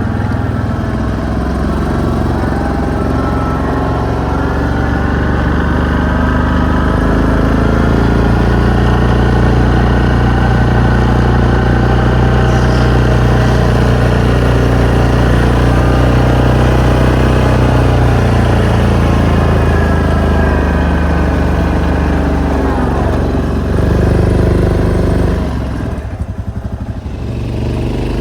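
Engine of a snow-plowing vehicle running steadily under load while pushing snow, its pitch drifting up and down with the throttle. Near the end it drops to a lower, quieter idle.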